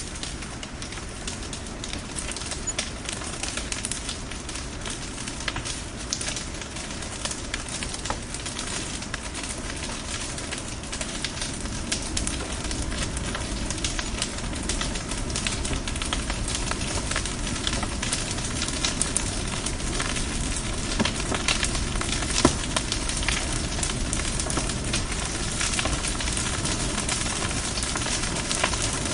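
Bonfire burning, the wood crackling with many small pops, and one louder pop about three quarters of the way through.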